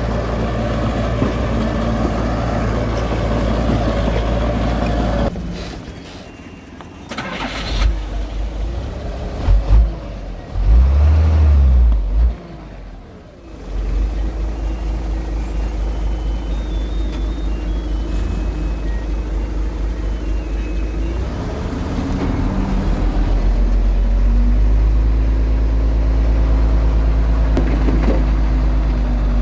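Heavy diesel engine of earthmoving machinery running with a steady low rumble. About five seconds in it drops away and a few short loud thumps come through. From about fourteen seconds it runs steadily again, getting somewhat louder from about twenty-two seconds.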